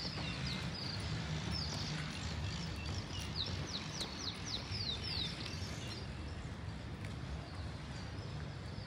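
A bird singing a quick run of short descending notes, about four a second, over a steady low rumble.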